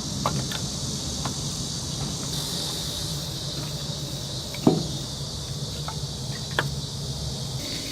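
Oak firewood burning, crackling with a few sharp pops over a steady hiss and low hum; the loudest pop comes a little past halfway.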